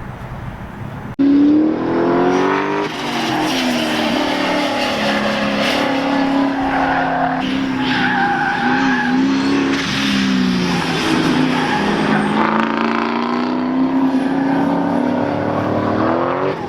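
Car engine accelerating and lifting again and again on a timed autocross run, its pitch climbing and dropping, with tires squealing through the turns. It starts abruptly about a second in.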